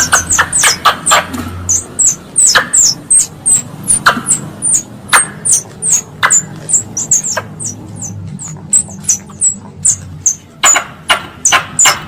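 Wild squirrel (tupai) lure call: a long run of short, sharp, high-pitched chirps, each dropping quickly in pitch, coming irregularly about two to three a second.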